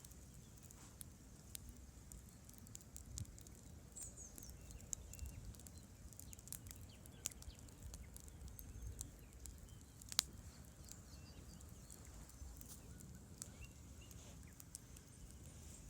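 Campfire crackling: scattered sharp pops and snaps of burning wood, one louder pop about ten seconds in, over a steady low rumble.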